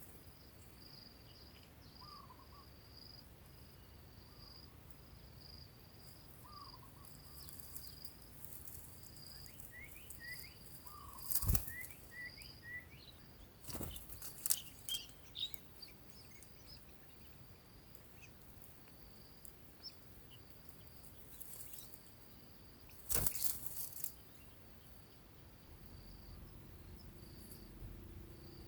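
Outdoor nature ambience: an insect, likely a cricket, trills steadily in a pulsing high tone, with short low calls every few seconds. Small birds chirp through the middle, and three sharp knocks stand out, about 11, 14 and 23 seconds in.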